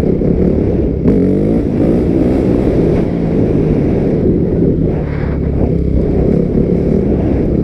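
250 cc dirt bike engine running under throttle, its pitch sweeping up and down as it revs about a second in, then holding a steady drone.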